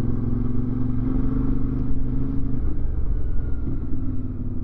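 CFMoto 450MT parallel-twin motorcycle engine running under way at a steady speed, its note climbing slightly and then dropping a little about halfway through.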